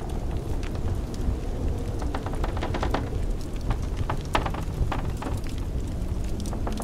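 Wood fire crackling in a fireplace, with scattered sharp pops and snaps, over a steady low rumble of blizzard wind.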